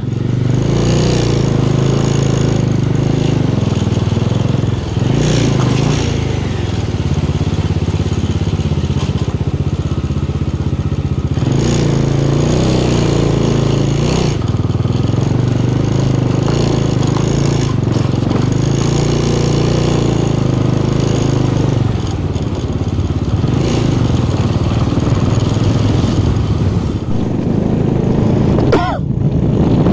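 Motorcycle engine running while riding, its note shifting a few times as the speed changes, with a brief rise in pitch near the end.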